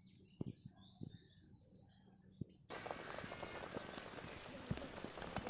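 Birds chirping, with a few soft knocks. About two and a half seconds in, the sound cuts abruptly to a louder steady hiss scattered with sharp crackling clicks.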